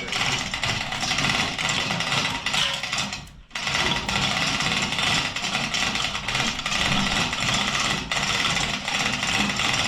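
Diesel truck engine running steadily, with a short drop-out about three and a half seconds in.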